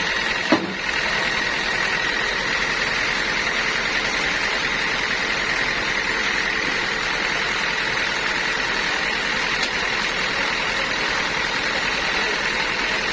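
Sawmill machinery running steadily, with a single sharp knock about half a second in.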